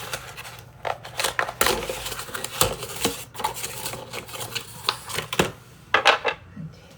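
Parts of a Giffin Grip trimming attachment being handled and fitted together: irregular clicks, knocks and clatter of small hard pieces.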